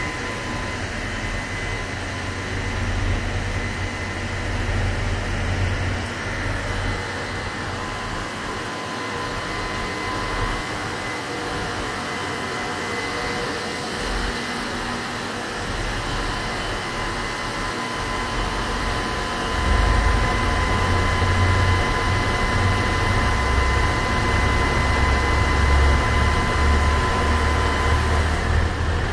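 Train running slowly through a station: a steady hum over a low rumble, the rumble growing louder about twenty seconds in.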